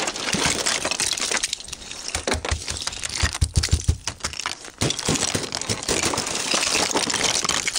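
A thick crust of glaze ice being cracked and broken off a car, with a dense run of crunching, crackling and clinking as the ice sheets break up, and a few heavier knocks in the middle.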